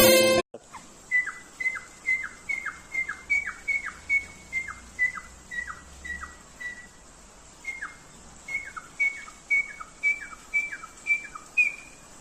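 A bird calling over and over, about twenty times at roughly two calls a second. Each call is a short whistled note that drops sharply in pitch.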